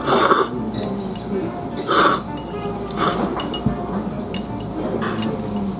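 Noodles slurped in short, loud, hissing pulls, four times, with light clinks of dishes between them over steady background music.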